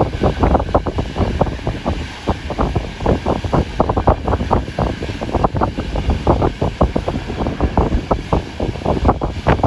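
Train running: a steady low rumble with rapid, irregular knocking, mixed with wind buffeting the microphone.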